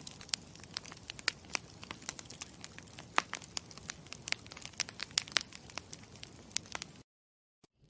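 Campfire crackling: sharp, irregular pops and snaps over a low steady hiss, which cuts off abruptly to silence about seven seconds in.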